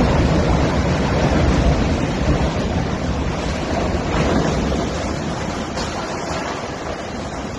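Wind buffeting the microphone over rough sea, a dense rushing noise heaviest in the low end that slowly eases.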